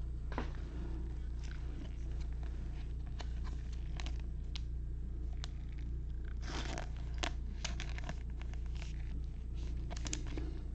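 Trading card packs being handled: foil wrappers crinkling and tearing, and cards clicking and sliding against each other, with a louder rustle about six and a half seconds in. A steady low hum runs underneath.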